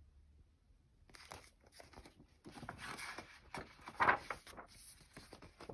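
Paper rustling and crinkling for several seconds, starting about a second in, with small crackles: the pages of a picture book being turned.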